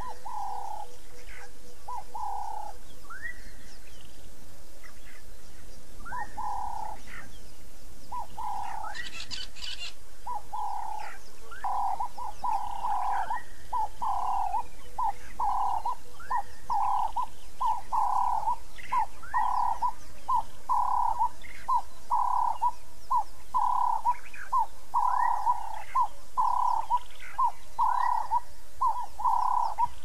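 Birds calling: a long series of short, low notes repeated about twice a second, becoming steadier and louder from about twelve seconds in. Higher, rising chirps are scattered over them.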